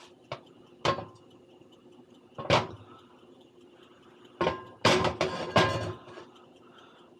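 Kitchen knocks and clatters as things are handled while cooking: a few short knocks, then a denser run of clattering about five seconds in.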